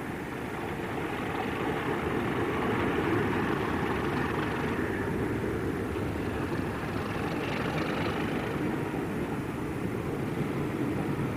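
Diesel locomotive hauling a passenger train past, its engine drone mixed with the rumble of the coaches running over the track, growing louder over the first few seconds and then holding steady. A faint high squeal comes in briefly about seven seconds in.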